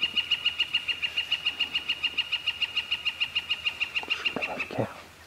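A bird's long call: a rapid, even run of high notes, about eight a second, that stops almost five seconds in. A short sound sweeping down in pitch follows it.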